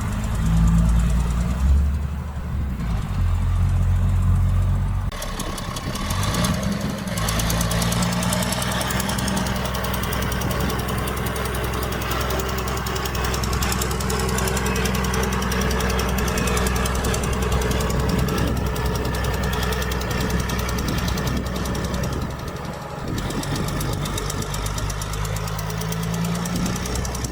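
Diesel engine of heavy earthmoving machinery running under load. It revs up about six seconds in, holds steady, then eases off briefly near the end before picking up again.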